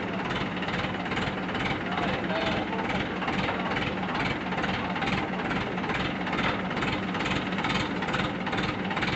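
An engine running steadily, with a low hum and an even pulse about three times a second.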